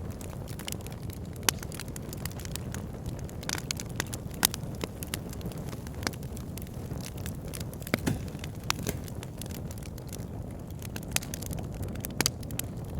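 Wood fire in a log burner: crackling logs, a steady low rumble of the flames with irregular sharp pops and snaps, a few louder than the rest.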